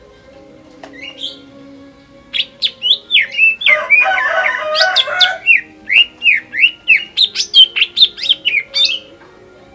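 Green leafbird (cucak ijo) singing: after a single short call, a fast, loud run of sweeping whistled notes begins about two seconds in, broken by a harsh chattering stretch, then a quick series of down-slurred whistles, about four a second, that stops near the end.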